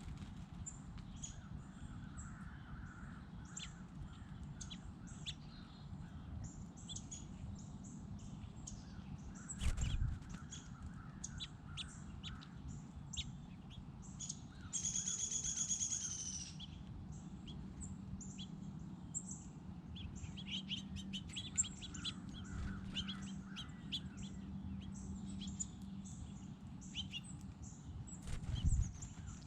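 Small birds chirping and twittering repeatedly, with one louder, harsh call lasting about a second and a half midway. A low thump sounds about ten seconds in and another near the end.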